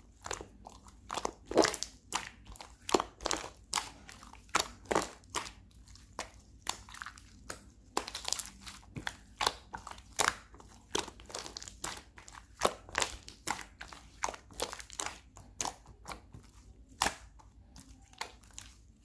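Slime being squeezed and pressed by hand, making an irregular run of sticky pops and crackles, several a second.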